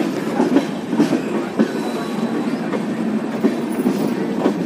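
Passenger train coach rolling along the track, its wheels knocking over rail joints every half second or so above a steady rumble of the running gear.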